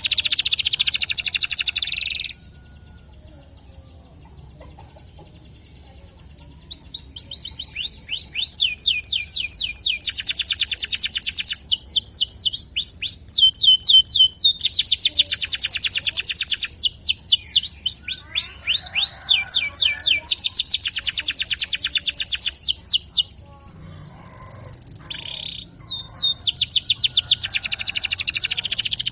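Domestic canary singing long, fast rolling trills of rapidly repeated high notes. It pauses for about four seconds early on, then sings without a break, with a short gap about three-quarters of the way through.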